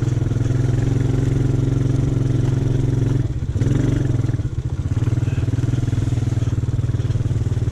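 ATV engine running at a steady throttle. It eases off briefly a little past three seconds in, then picks back up.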